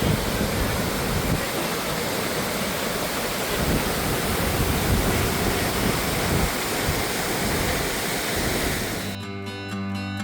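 The falls on the Housatonic River: water pouring over the falls in a steady, loud rushing noise with a fluctuating low rumble. About nine seconds in it cuts off abruptly and acoustic guitar music begins.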